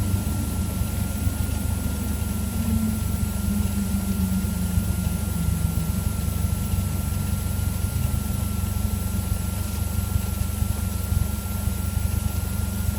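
Cessna 172's four-cylinder Lycoming piston engine running steadily at low idle power while the plane taxis, a deep even drone with a thin steady high whine over it.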